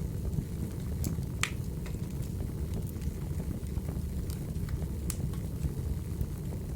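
Crackling wood fire: a steady low rumble of burning logs with irregular sharp pops and snaps, two louder pops about a second and a half and five seconds in.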